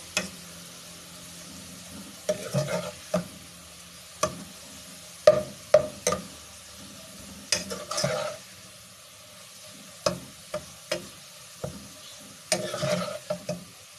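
Sliced onions frying in hot oil in a pan, sizzling steadily on the oil's remaining heat after the flame is turned off. A spoon stirs them, knocking and scraping against the pan a dozen or so times at uneven intervals.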